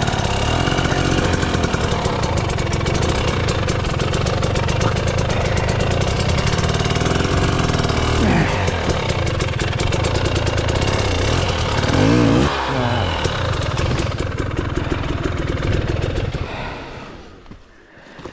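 Dirt bike engine running under the rider, its pitch rising and falling with a few revs on rough ground. The engine sound dies away near the end.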